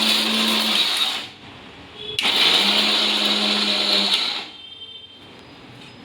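Electric mixer grinder pulsed twice, each run lasting about two seconds, as it grinds raw nuts into powder. The runs are kept short so the nuts' oil does not turn them into nut butter.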